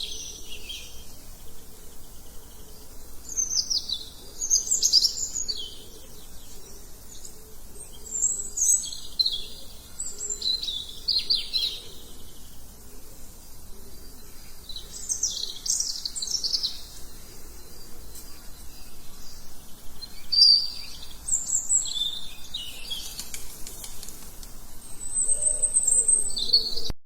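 Several small songbirds chirping and singing, with short high sweeping calls and quick trills coming in clusters every second or two over a faint steady hiss.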